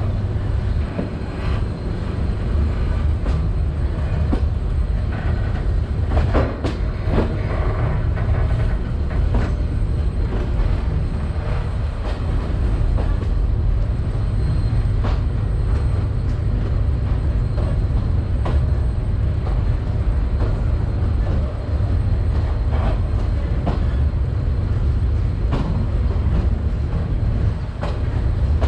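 Passenger train running on the rails: a steady heavy low rumble with irregular clacks and knocks of the wheels and carriages over the track.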